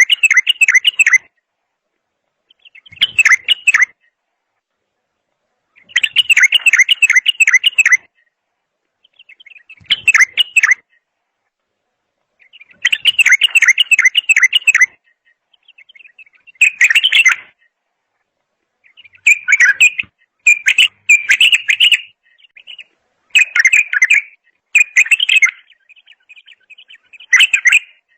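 A songbird singing in short, fast warbled phrases, each lasting one to two seconds with gaps of about a second between them, about ten phrases in all.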